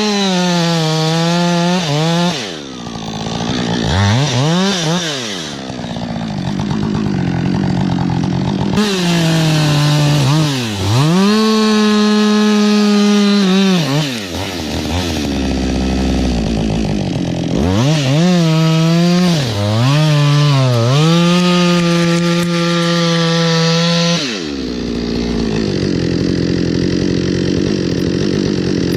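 Chainsaw cutting wood, its engine pitch dropping under load and climbing back again and again, with steady spells at full speed in between.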